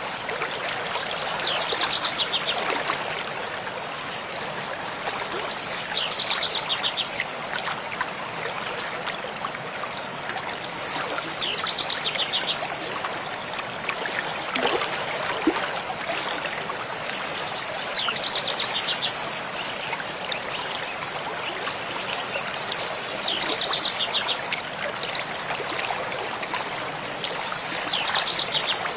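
Mountain stream flowing with a steady rushing babble, while a songbird repeats a short, fast, high trilled phrase about every five to six seconds.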